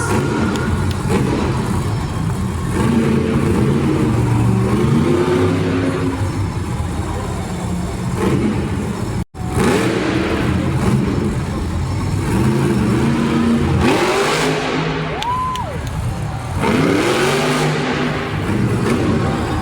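Monster truck engines revving hard in a series of rising surges, loud throughout. The sound cuts out completely for an instant a little past the middle.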